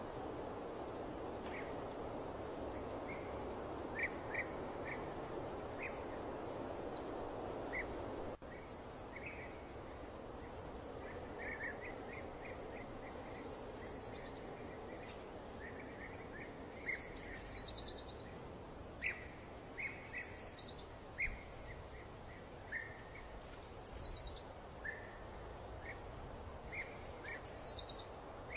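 Wild birds singing over a steady background hiss: short chirps throughout and, from about halfway, a repeated high call that slides down in pitch every few seconds. The background hiss drops suddenly about eight seconds in.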